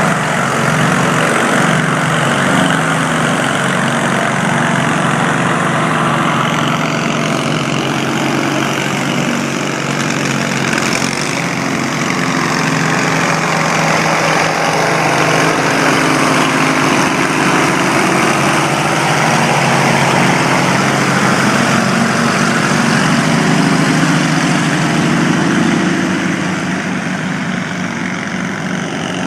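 An 18 hp Briggs & Stratton twin-cylinder engine running steadily, easing off slightly near the end.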